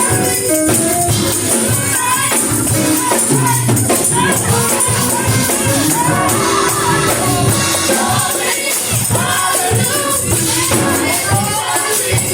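Live gospel music: a choir singing over a band, with tambourine shaking on the beat.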